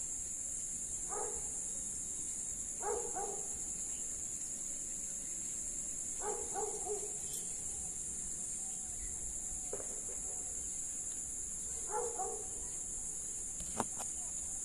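Steady high-pitched insect chorus, like crickets, with short distant animal calls about every two to three seconds and a sharp click near the end.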